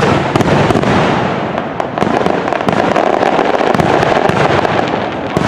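Fireworks going off in a dense, continuous barrage of rapid crackling pops and bangs.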